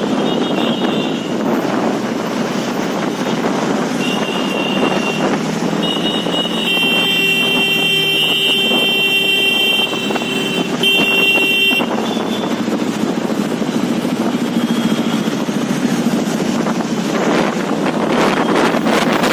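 Motorcycle engines and road traffic running steadily, with vehicle horns honking several times: a short toot at the start, another about four seconds in, and a long honk held for about three seconds from around six seconds in, followed by one more near twelve seconds.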